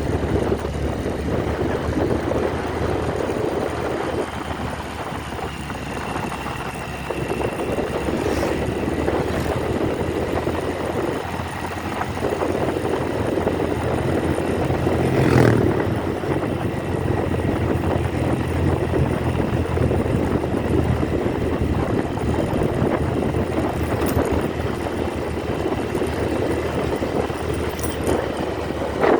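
Motorcycle engine running steadily on the move, with a steady low engine note under continuous noise; a brief knock about halfway through.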